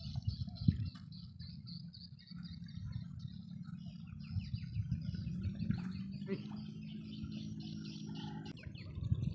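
Small birds chirping and twittering in rapid, overlapping calls over a low background rumble, with a faint steady low hum in the later part.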